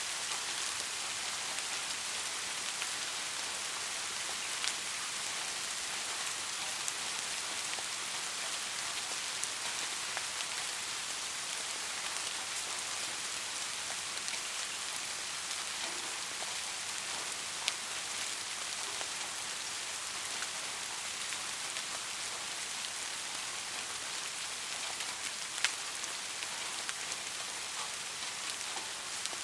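Steady rain falling, an even hiss with a few sharper drop ticks standing out now and then.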